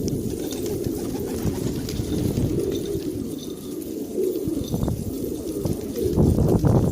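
Pigeons cooing, a dense low mix of overlapping coos that grows louder near the end.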